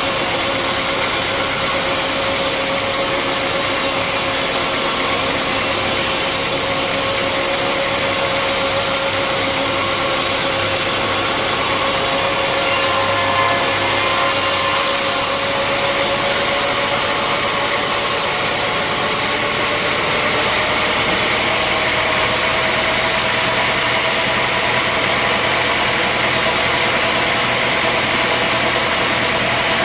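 Sawmill machinery running steadily with an engine-like drone; its main tone climbs slowly through the second half.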